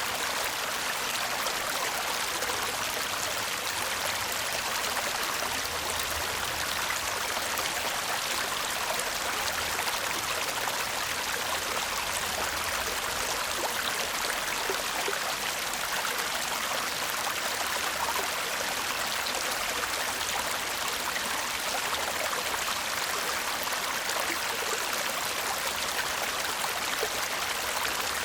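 Shallow stream babbling and murmuring steadily over stones, a continuous even rush of water.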